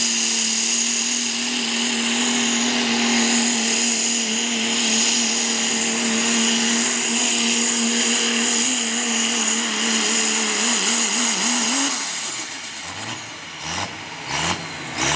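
Diesel truck engine at full throttle with a high turbo whine, holding a steady note for about twelve seconds. Near the end the note wavers, then falls away as the engine drops off.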